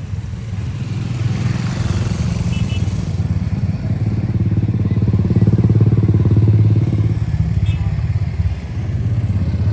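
Motorbike engine running under way, getting louder through the middle and easing off briefly near the end.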